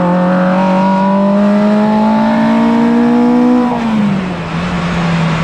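Ford Puma hillclimb car's engine pulling hard, the revs climbing steadily for most of the clip, then dropping sharply as the driver lifts off and holding at a steady lower pitch, with tyre and wind noise underneath.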